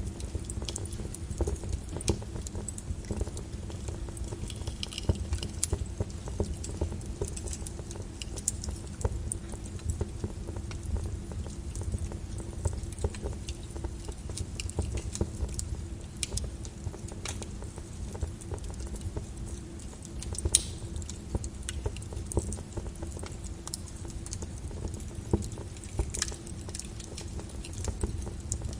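Lava crackling and popping as it flows and its crust cools: a dense, irregular run of small clicks and ticks over a steady low rumble, with a few sharper pops standing out.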